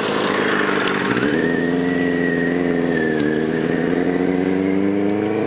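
DSK Benelli TNT 600i inline-four running under way through an aftermarket IXIL exhaust. The note rises and falls gently in pitch and grows stronger about a second in as the throttle opens.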